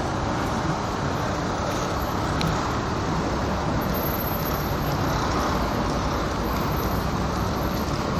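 Steady road traffic noise: a constant rush with no separate events standing out.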